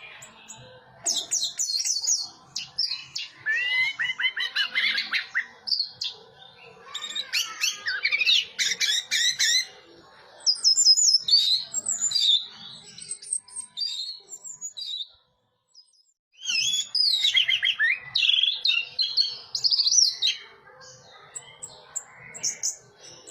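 Orange-headed thrush singing: a varied run of rapid warbled and whistled phrases in bursts of a few seconds, with short pauses between them, quieter near the end.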